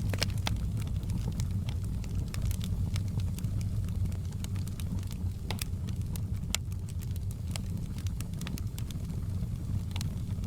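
Wood fire burning in a fireplace: a steady low rumble of flames under frequent, irregular sharp crackles and pops of the burning logs.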